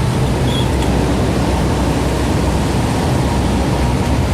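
Single-engine Cessna's piston engine and propeller running steadily, heard inside the cockpit as a constant drone with airflow noise, while the plane descends on approach to land.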